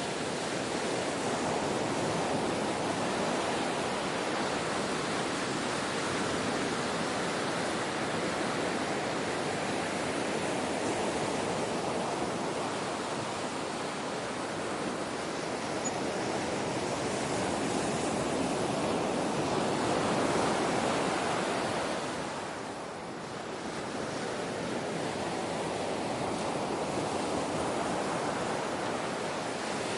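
Ocean waves washing ashore as a steady rush of surf that swells and ebbs slowly, with one rise about two-thirds through and a short lull just after.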